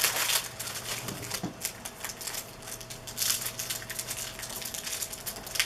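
Trading card packs and cards being handled: quick crinkling of foil pack wrappers, rustling and soft clicks of cards, over a faint steady electrical hum.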